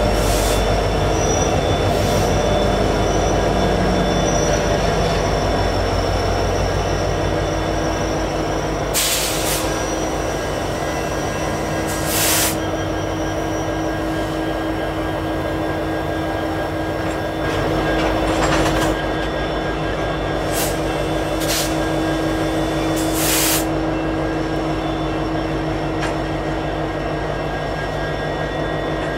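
Freight train's trailing diesel locomotives, CN EMD SD75Is, rumbling slowly past with tank cars behind, with a steady hum and a handful of short screeches from the braking train as it slows almost to a stop.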